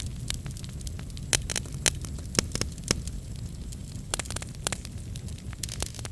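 Wood fire crackling in a fireplace: a steady low rumble of flames with frequent sharp pops and snaps, a few louder pops in the first half.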